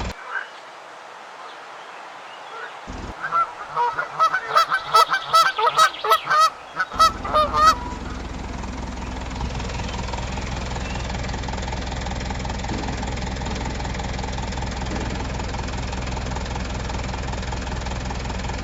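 A run of about a dozen loud, goose-like honking calls lasting about four seconds. As they end, a steady low motor hum starts and carries on.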